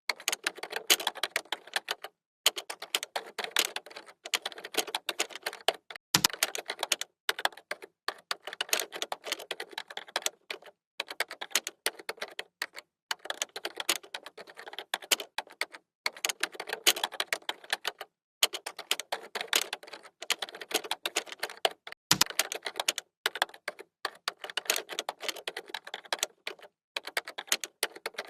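Computer keyboard typing: fast runs of keystroke clicks broken by short pauses every second or two. Twice a heavier, deeper keystroke thumps.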